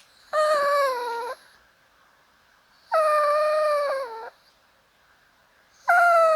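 Dog whining three times, each a high, drawn-out whine of about a second, begging for meat.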